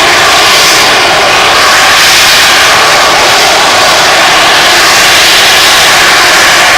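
Harrier jump jet's Rolls-Royce Pegasus turbofan running at high power to hold the jet in a hover: very loud, steady jet noise with a strong hiss, holding even throughout.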